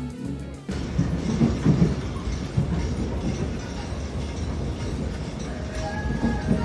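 Brief music, then a train running on its rails heard from inside the carriage: a steady low rumble with irregular knocks from the wheels and track. Soft music comes back in near the end.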